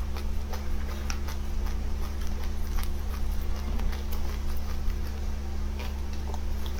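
Scattered small clicks and crunches of seeds being bitten and eaten, a few each second, over a steady low electrical hum.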